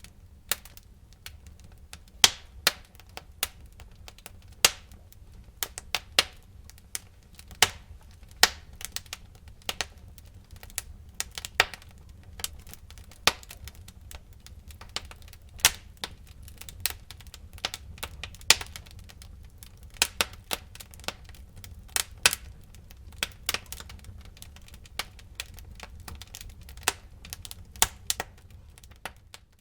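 Wood fire crackling in a fireplace: burning logs give irregular sharp pops and snaps, a few a second, over a steady low rumble of the flames.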